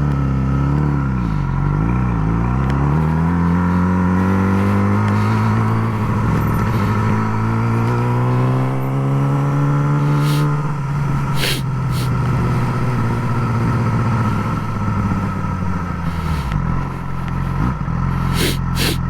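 Yamaha R6 sport bike's inline-four engine under way: its pitch dips briefly about a second in, then climbs steadily for several seconds as it accelerates, and holds steady at cruise, easing off briefly near the end. A few sharp clicks or knocks come through around the middle and near the end.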